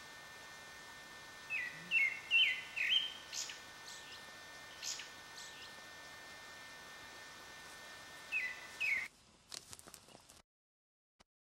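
Small birds calling outdoors over a steady hiss: a quick run of four short falling chirps, a couple of sharper high notes, then two more chirps later on. The sound cuts out shortly before the end.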